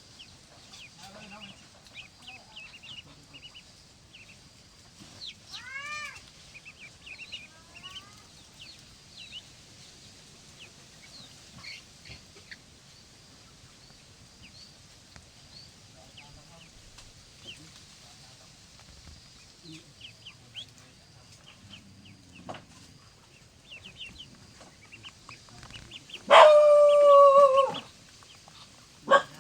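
Farmyard poultry: scattered short chirps and clucks throughout, with one loud, long drawn-out animal call near the end.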